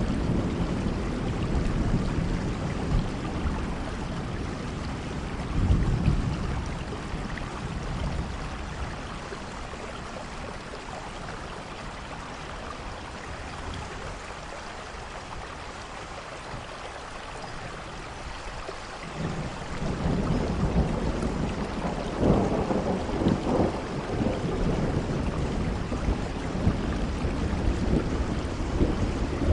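Steady rainfall, a continuous hiss, with low rumbles that swell near the start and about six seconds in, ease off through the middle, and build up again from about two-thirds of the way through.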